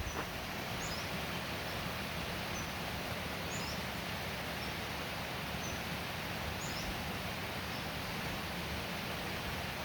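A small bird giving short, high chirps about once a second over a steady outdoor hiss.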